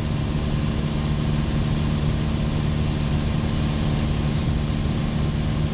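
Piper Cherokee's piston engine and propeller droning steadily in cruise, heard in the cockpit.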